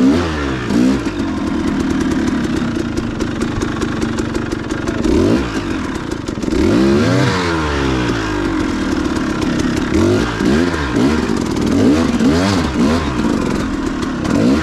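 Dirt bike engine running, its pitch rising and falling again and again as the throttle is worked, with a light rattle through the first half.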